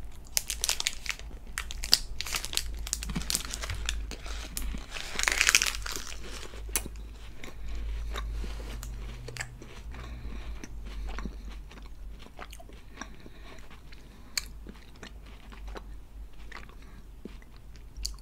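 Close-miked crunching and chewing of KitKat chocolate wafer: dense, crisp crunches for the first six or seven seconds, loudest about five and a half seconds in, then quieter chewing with only an occasional crunch.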